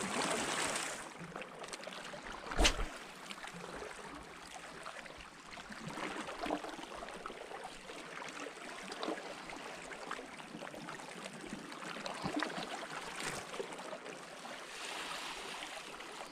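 Water lapping and trickling, with one sharp knock near three seconds in and a few faint clicks scattered through.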